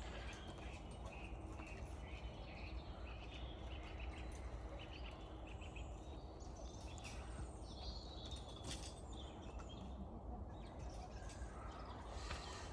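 Small birds chirping in short, repeated phrases over a faint, steady low rumble.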